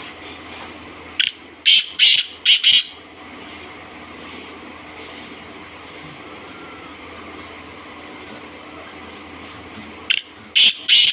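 Black francolin calling: a phrase of about five short, loud, high notes in quick succession, given about a second in and again near the end, over a steady low hum.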